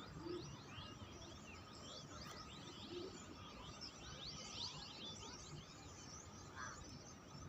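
A large flock of birds chirping together, a dense chorus of many short, overlapping falling calls, faint.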